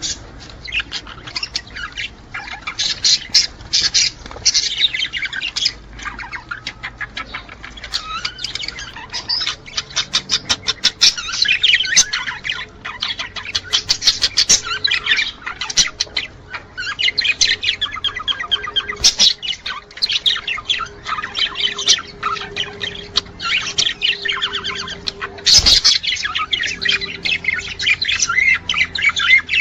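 Budgerigars chattering and warbling without pause, with harsh squawks mixed in. This is the busy song of budgies in breeding condition, typical of males courting. A faint steady hum joins about ten seconds in, and a single sharp knock comes near the end.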